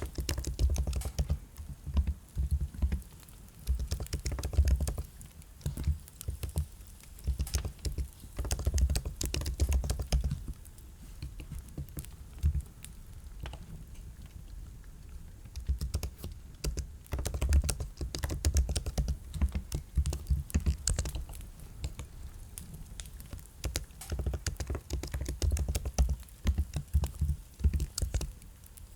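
Typing on a computer keyboard: bursts of rapid keystrokes separated by pauses of a few seconds.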